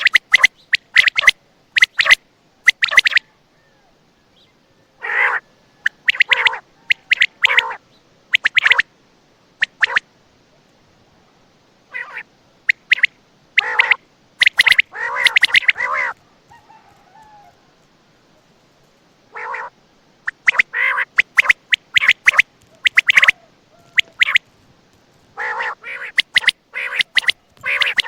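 Quail calling: loud, short, sharp calls given in quick clusters of several notes, with pauses of a second or more between the clusters.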